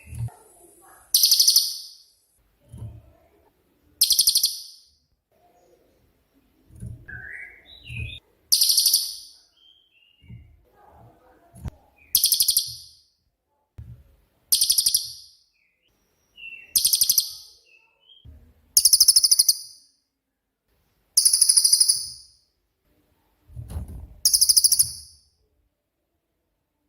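Cililin songbird repeating a loud, high, rapid trilling call of about a second, roughly every two seconds, about ten times: the 'shooting' (tembakan) type of call prized for training other songbirds.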